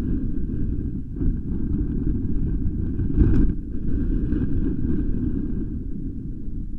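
Wind buffeting the nest-camera microphone: a steady low rumble that swells and eases in gusts, strongest about three seconds in.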